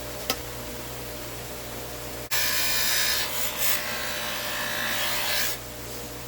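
Electric polishing wheel running with a steady hum. About two seconds in, a chrome trim piece is pressed against the spinning buffing wheel, giving a loud hissing rub for about three seconds before it is lifted off.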